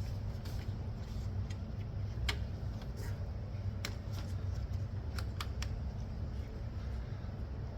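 Scattered light clicks and taps of hand tools and small parts being handled in a car's engine bay, over a steady low hum.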